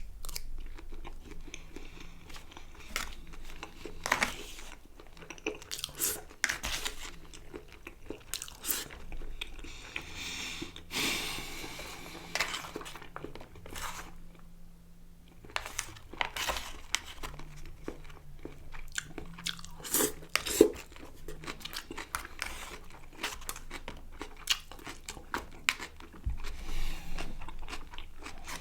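Close-miked mouth sounds of a person eating: chewing, with irregular wet clicks and crunches, and a short burst of denser crackly noise about ten seconds in.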